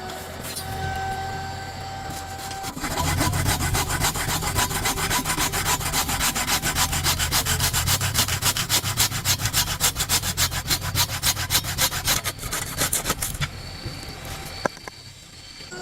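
Hand saw cutting wood in quick, even strokes for about ten seconds, starting about three seconds in and stopping near the end. A steady high tone is heard before and after the sawing.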